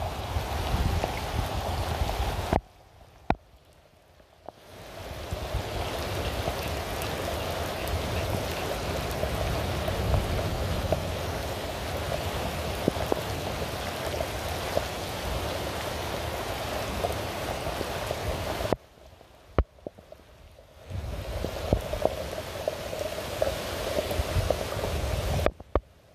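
Steady rain, an even hiss of falling rain with a low rumble beneath. It cuts out abruptly to near quiet three times, for a second or two each: about three seconds in, about nineteen seconds in, and just before the end.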